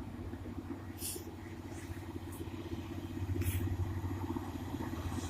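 Class 185 Desiro diesel multiple unit running through the station: a steady low diesel drone that grows louder in the second half, with brief high hisses about one and three and a half seconds in.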